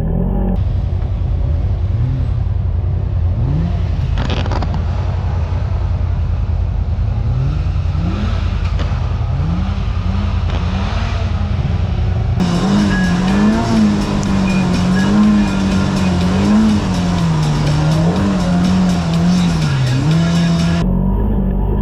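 Side-by-side UTV engine running under load, revving up again and again in short rising pulls, then holding with its pitch swinging up and down as the throttle works on the trail.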